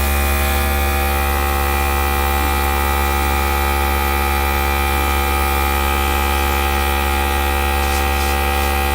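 Small electric air gun running steadily, its motor giving a constant hum with a faint whine as it blows air across alcohol ink.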